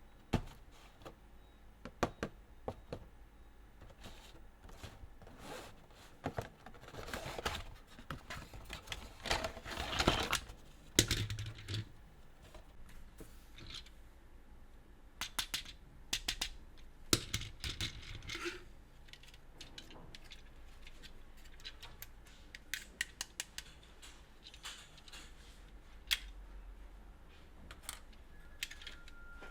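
Hands handling plastic toy pieces and packaging: irregular clicks and taps, with a few short bursts of rustling about a third of the way in.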